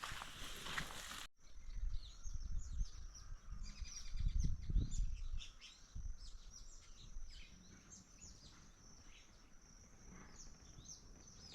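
Many birds chirping and calling in quick, short, repeated notes, over a low rumble that swells and fades. For about the first second a steady hiss covers everything, then cuts off abruptly.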